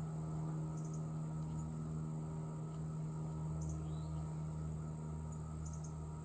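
Steady high-pitched drone of crickets over a steady low hum, with a few short, faint high chirps scattered through.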